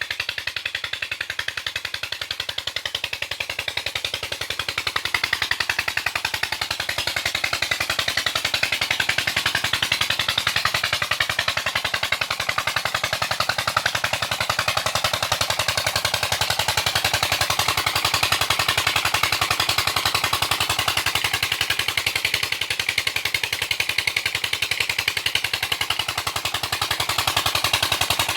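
Old diesel tubewell engine running steadily, its exhaust beats coming in a fast, even train, a little louder from about five seconds in.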